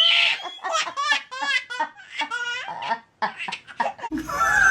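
Hearty human laughter in repeated short bursts, breaking off briefly about three seconds in before starting again.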